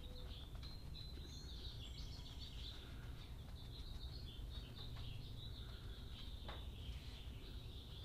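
Faint birdsong: small birds chirping and twittering continuously, heard through an open garage door over a low steady background rumble.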